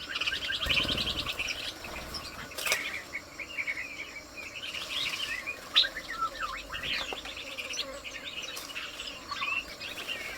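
Small songbirds chirping and calling over and over, with a fast run of short chirps near the start and a brief low rumble about a second in.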